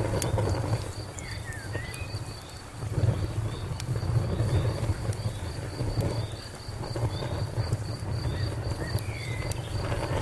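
Fire burning with a low, unsteady rumble and scattered sharp crackles, while a cricket chirps in an even pulse, about three or four chirps a second. A couple of faint bird calls come in, once early and again near the end.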